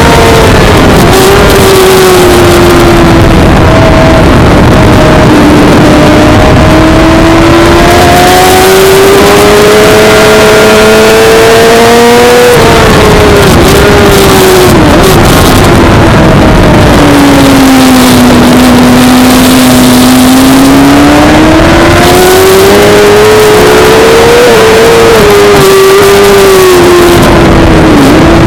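Suzuki GSX-R600 inline-four racing motorcycle engine at track speed. Its pitch climbs under acceleration, drops sharply about twelve seconds in, stays low for a while, then rises and falls again, over a heavy rush of noise.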